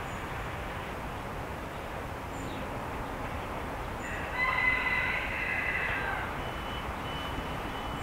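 A songbird singing over steady background hiss: one loud, clear two-second phrase of several pure tones about halfway through, then a few short, thin high notes near the end.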